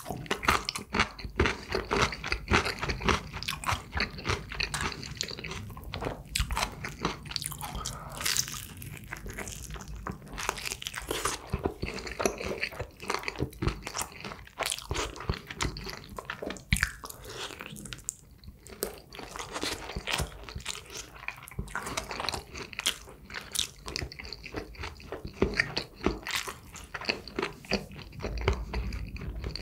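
Crunching bites and chewing of crispy Kyochon Honey Combo fried chicken, a steady run of crackly crunches throughout.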